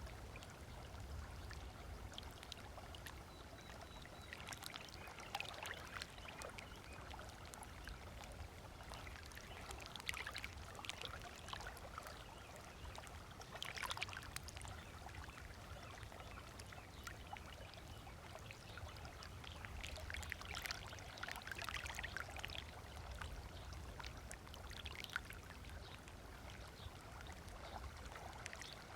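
Small waves lapping and splashing against a beach shoreline, coming in irregular surges every few seconds, over a low steady rumble.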